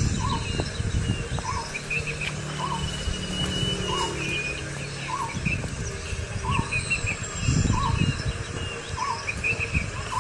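Wild birds calling: one repeats a short note about once a second, with scattered higher chirps over it. Low rumbling on the microphone swells near the end.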